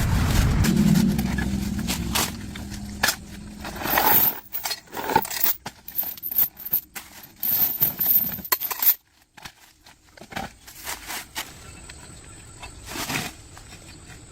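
A low rumble that fades out about four seconds in, followed by a run of irregular sharp clicks and knocks that thin out after about nine seconds.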